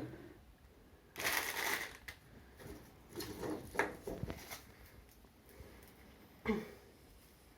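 Artificial pine branches rustling and crinkling as they are handled and bent. The longest, loudest rustle comes about a second in, followed by scattered shorter rustles and clicks.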